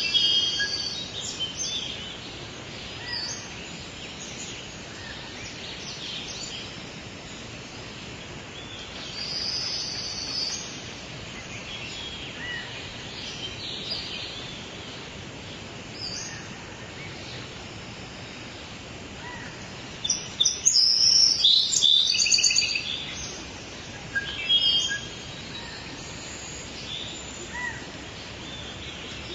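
Birds chirping and calling on and off over a steady background hiss. A louder run of quick chirps and trills comes about two-thirds of the way in, with one more short loud call just after.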